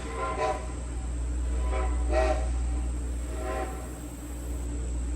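Steam locomotive whistle sounding several short blasts about a second and a half apart, some fainter than others like an answering echo, over the steady low rumble of the moving train.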